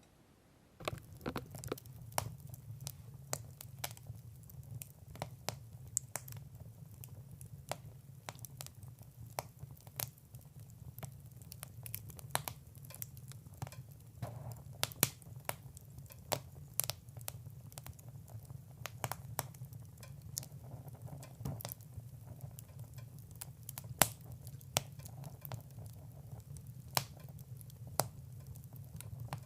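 Wood fire in a fireplace crackling, with sharp irregular pops over a low steady background. It starts about a second in, and the loudest pop comes near the end.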